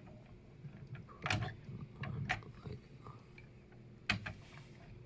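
Hard plastic and metal computer parts clicking and knocking as an all-in-one liquid cooler's pump block is set down onto the CPU mount: a few sharp clicks, the loudest three about a second apart, with fainter taps between.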